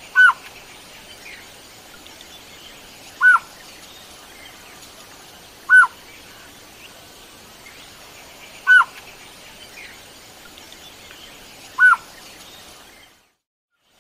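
A bird calling: a short, clear down-slurred note repeated five times, about once every three seconds, over faint outdoor background hiss.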